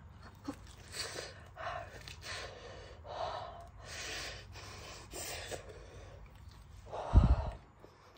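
A person eating a very hot mouthful, huffing short sharp breaths in and out through the mouth to cool it. The breaths come as a string of quick puffs, with one louder burst near the end.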